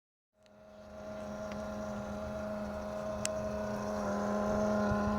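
A steady hum from a 2011 BMW 550i: one strong low tone with fainter higher tones over it, the unexplained noise the owner is asking about. It comes in just after the start, with a few faint clicks and a slight rise in level about four seconds in.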